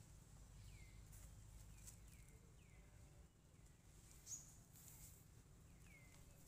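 Faint outdoor quiet with a small bird's short downward-sliding call repeated several times, and one sharper, higher chirp about four seconds in.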